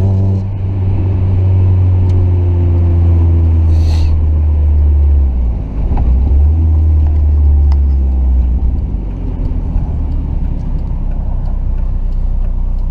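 Mazda Miata's four-cylinder engine running through an aftermarket exhaust (resonated test pipe and a 6-inch muffler), heard from inside the car while driving as a loud, low drone. The drone dips briefly about five and a half seconds in, as at a gear change, and then carries on with more road noise.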